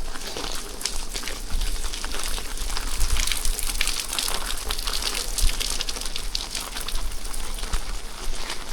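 Steady rain falling and pattering, with a dense run of small crackly drop taps and a low rumble underneath.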